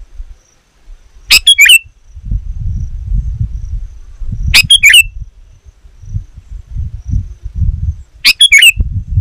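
Sooty-headed bulbul giving three short, loud bursts of call notes about three seconds apart, over an uneven low rumble.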